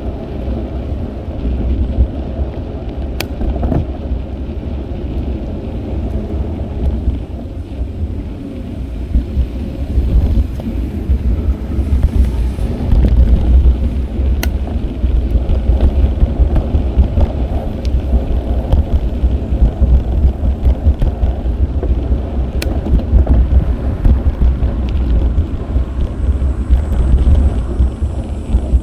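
Wind buffeting an action camera's microphone while riding a bicycle. It makes a steady, fluttering low rumble over tyre and road noise, with a few sharp clicks.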